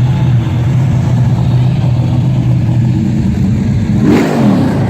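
Car engine idling with a steady deep rumble, then revved briefly near the end.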